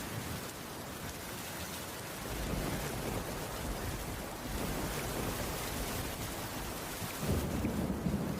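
Steady heavy rain hissing, with a deeper low rumble swelling in twice, a couple of seconds in and again near the end.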